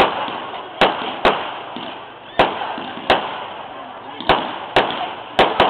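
Aerial fireworks shells bursting: about eight sharp bangs at irregular intervals, with fainter steady noise between them.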